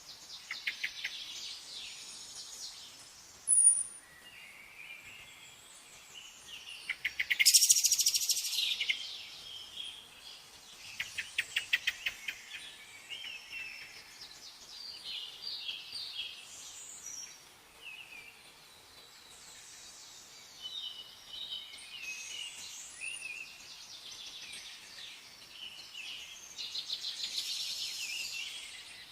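Songbirds chirping and singing, a mix of short chirps and fast trills. The loudest is a rapid trill about a quarter of the way in.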